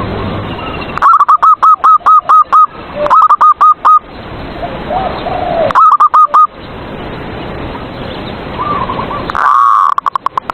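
Zebra doves (perkutut) cooing: rapid runs of short, clipped coo notes, three bursts in the first two-thirds and another phrase near the end, over a steady background hiss.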